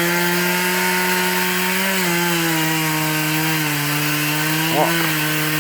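Two-stroke chainsaw running at full throttle through a cut, a steady high engine note whose pitch sags slightly a couple of times as the chain bites into the wood.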